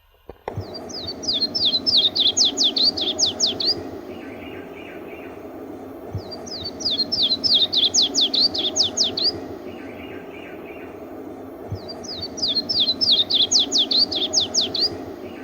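Yellow-throated warbler singing three times. Each song is a run of clear, down-slurred whistled notes that starts slow and speeds up, ending with a rising final note.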